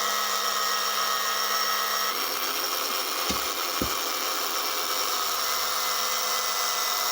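Small electric slot-car motor whining steadily as it drives a pair of slot-car tyres rubbing against each other on a tyre conditioner, the tyres wet with oil and lighter fluid. Its tone shifts about two seconds in, and two short clicks come about half a second apart a little past three seconds in.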